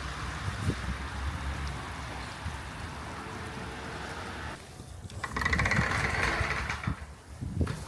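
Diesel railcar running, a steady low engine drone heard on board. About five seconds in a louder rattling hiss rises for a second and a half, followed by a few low thumps near the end.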